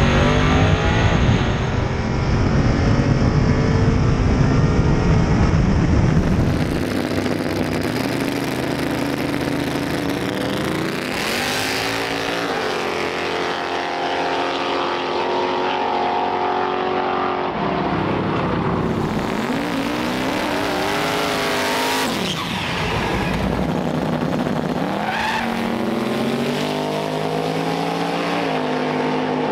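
Drag-racing car engines. For the first six seconds the sound is loud and low-pitched; after that engines run with their pitch rising and falling several times, as they rev and accelerate.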